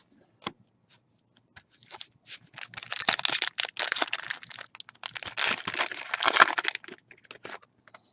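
Plastic card-pack wrapper crinkling and tearing in two stretches of a couple of seconds each, starting about two and a half seconds in. Before that come a few light clicks of cards being handled.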